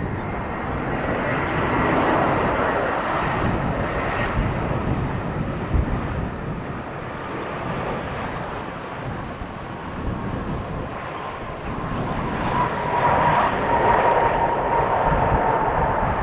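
Jet airliner engines: a continuous roar with a high whine tone that drifts slightly lower, growing louder in the last few seconds.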